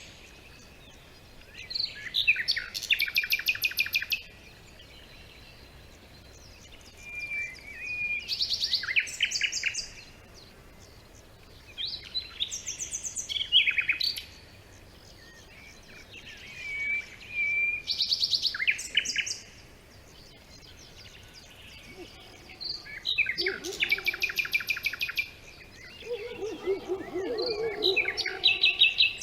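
Songbirds singing: short, rapid trilled phrases come about every four to five seconds with quiet gaps between them. A lower warbling sound joins near the end.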